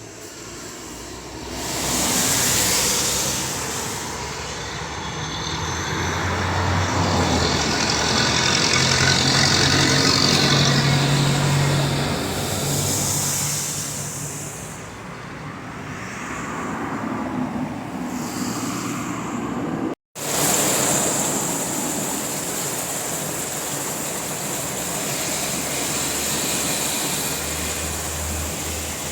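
Road traffic: vehicles passing one after another, each swelling and fading, with a low engine hum from a heavier vehicle in the middle. The sound cuts out briefly about two-thirds of the way through.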